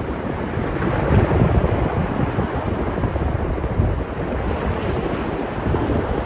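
Sea surf washing onto the shore in a steady wash, with wind buffeting the microphone in low rumbling gusts.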